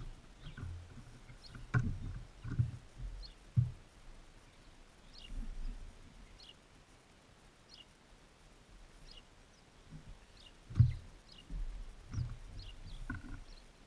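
Birds at a feeder right beside the microphone: irregular low knocks and thumps as they land and peck at seed, the loudest about two seconds in and near eleven seconds. Behind them a bird gives short, faint, high chirps that drop in pitch, repeating about once a second.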